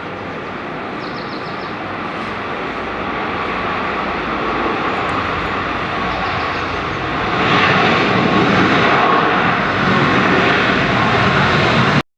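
Boeing 737 MAX 8's CFM LEAP-1B jet engines on landing: a steady roar that grows louder and steps up sharply about seven and a half seconds in, then cuts off abruptly near the end.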